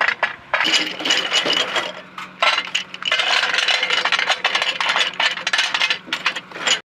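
Metal hardware clinking and rattling in many quick knocks as munitions are handled and loaded, over a faint steady hum; it cuts off suddenly near the end.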